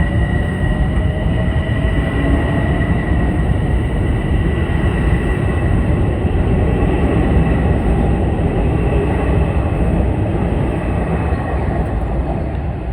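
Metro-North commuter train running alongside the platform, a loud steady rumble of wheels and running gear with a faint high whine.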